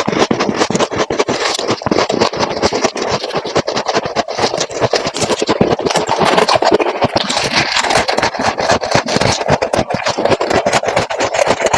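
Frost ice being scraped from inside a refrigerator freezer: a loud, continuous run of rapid gritty scratching.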